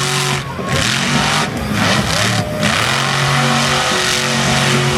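Monster truck engine revving hard in repeated bursts, the throttle lifting briefly about half a second in, at about a second and a half, and again at about two and a half seconds.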